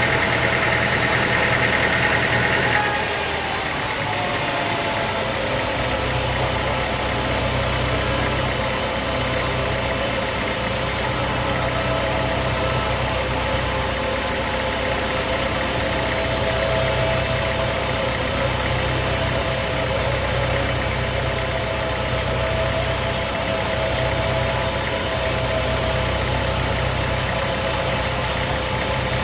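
Sawmill machinery running steadily with an engine-like drone. About three seconds in a high whine stops and a deeper hum takes over.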